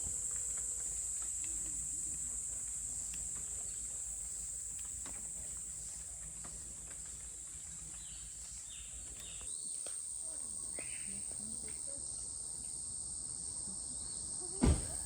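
Insects keep up a continuous high-pitched chorus. A single sharp knock sounds about a second before the end.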